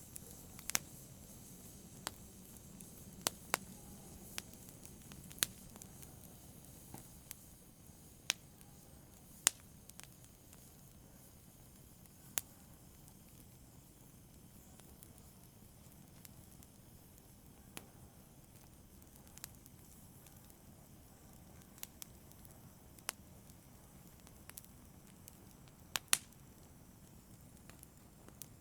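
Fire crackling lightly: sparse, irregular sharp pops and snaps over a faint low hiss, with a couple of louder snaps about nine and twenty-six seconds in.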